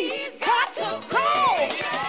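Live gospel music: a singer holds long notes and bends them through vocal runs over band accompaniment.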